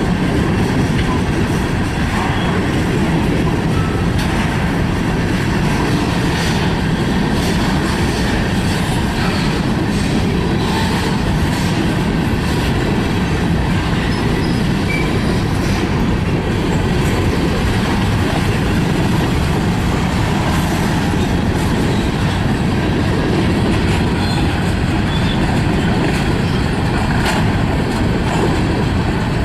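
Freight train cars rolling past, a steady rumble of steel wheels on rail with scattered clicks and clacks.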